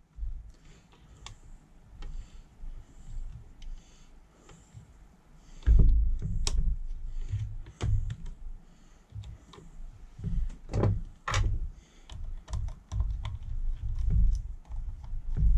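Scattered clicks, taps and low thumps of hand tools and small metal parts being handled and fitted, with heavier knocks about six seconds in and again around eleven seconds.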